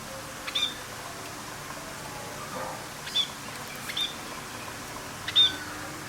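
A bird giving a few short, sharp chirps spaced a second or more apart, the loudest near the end.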